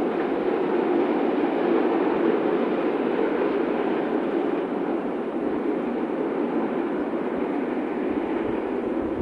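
Steady rumble of a train running along the railway line, even and without distinct wheel clicks.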